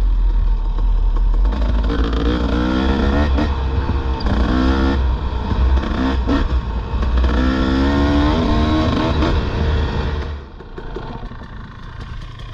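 Dirt bike engine running under changing throttle, its pitch rising and falling in surges of about a second, over a heavy low rumble. About ten seconds in the rumble and engine fall away to a much quieter level.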